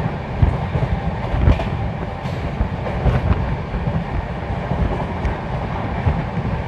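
The 12779 Goa Express running at high speed: a steady loud rumble of the coach and its wheels on the track, with scattered short knocks.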